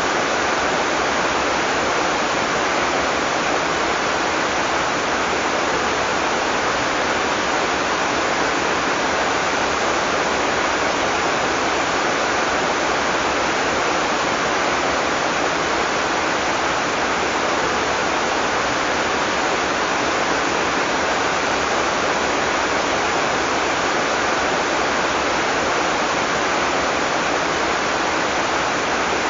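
Heavy rain falling steadily, a dense even hiss with no thunder and no separate drops or events.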